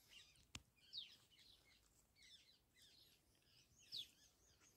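Near silence with faint bird chirps: several short, high notes falling in pitch, scattered through, and one sharp click about half a second in.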